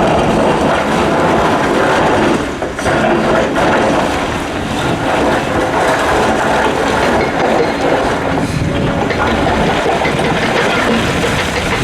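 Hitachi Zaxis 890LCR excavator loading rock into a CAT 775D quarry truck: heavy diesel running under load with a continuous rattle and clatter of rock, dipping briefly about two and a half seconds in.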